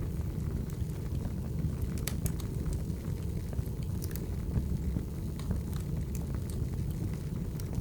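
Wood fire burning: a steady low rumble with irregular sharp crackles and pops of burning logs.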